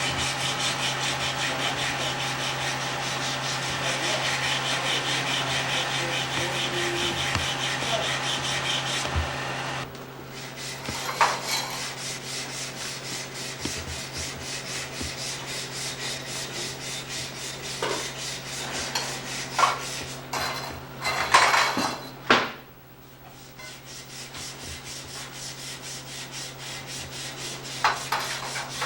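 Rhythmic rubbing or scraping strokes, like sanding, over a steady low hum. It is louder for the first third, then quieter, with a few sharp knocks around the middle.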